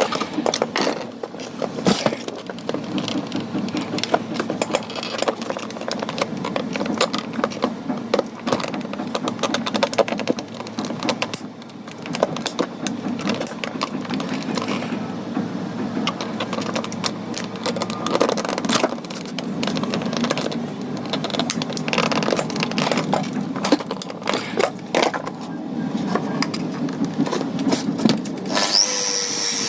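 Irregular clicks and knocks of hard parts being handled and worked on. A small power tool whines up near the end.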